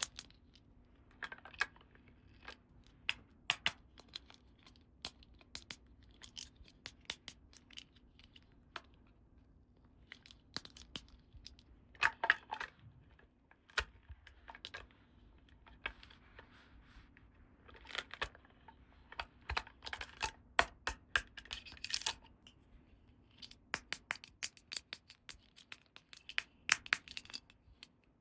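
Small plastic toy pieces and packaging being handled during unboxing: scattered sharp clicks and taps, with several short bursts of tearing and crinkling.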